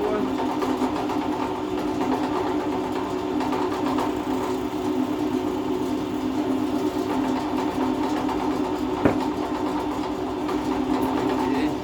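Electric drill motor running steadily while drilling holes in iron roofing sheet, with one sharp click about nine seconds in.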